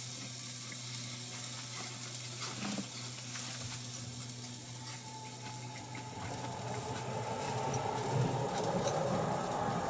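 Steady sizzling hiss over a low steady hum, growing louder and busier from about six seconds in.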